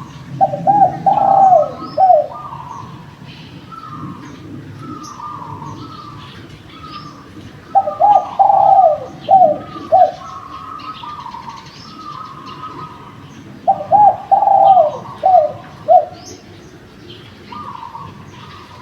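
Derkuku dove cooing: three loud phrases of several coos each, about six seconds apart. Softer, higher calls repeat between the phrases, with faint chirps of small birds.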